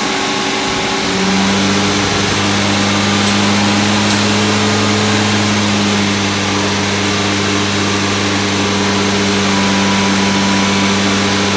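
Freshly rebuilt MG B-series 1800 four-cylinder engine running steadily on its first run, during cam break-in. The note holds even throughout and grows slightly stronger about a second in.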